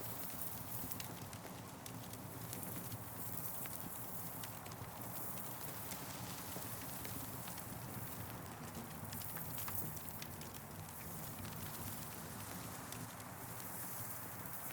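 Wood campfire burning, crackling with frequent small irregular pops over a steady hiss.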